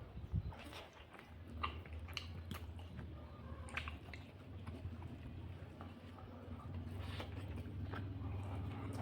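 A person chewing and eating a meal of fish curry, with scattered small clicks and mouth smacks over a steady low hum.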